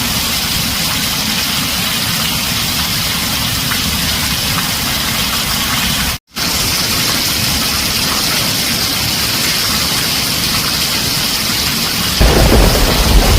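Heavy rain drumming steadily on a tin roof, cutting out for a moment about six seconds in. Near the end a low rumble of thunder sets in.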